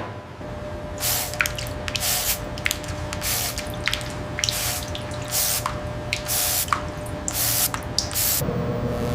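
About ten short bursts of hissing spray at irregular intervals, a few with small falling drip-like plinks, over a faint steady hum.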